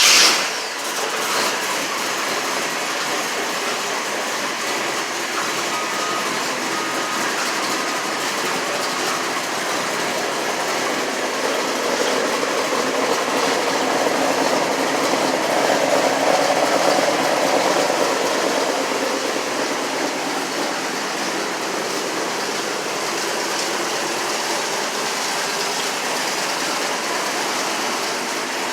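Chevy small-block 350 V8 (bored to 355) with port fuel injection, running on a cold start at a steady idle with its exhaust in the push-button quiet mode. It gets a little louder for a few seconds in the middle. The idle is on a freshly cleared tune that is still self-learning.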